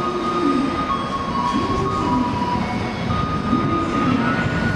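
N700-series Shinkansen train standing at the platform, its on-board equipment running with a steady hum, thin held tones that shift in pitch every second or so, and slow rising and falling whines underneath.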